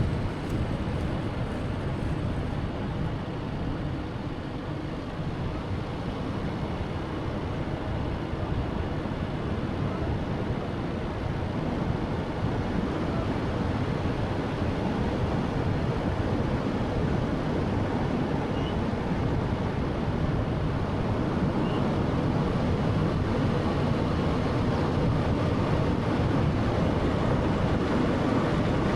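Steady road noise of a moving car, a low rumble of tyres and engine with a wind-like hiss, growing slightly louder toward the end.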